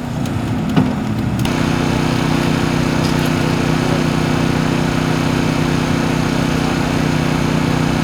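An engine running steadily at a constant speed, with a steady hum and a hiss above it; it comes in abruptly about a second and a half in.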